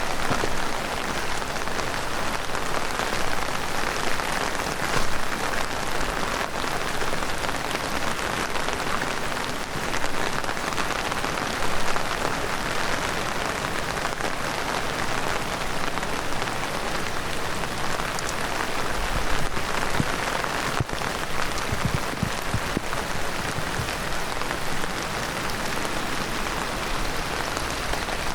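Heavy rain falling steadily, with individual drops ticking through an even hiss.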